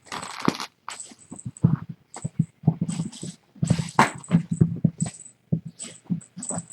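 Kittens scampering and pouncing at play, paws thumping and scuffling on the floor in a quick, irregular run of knocks.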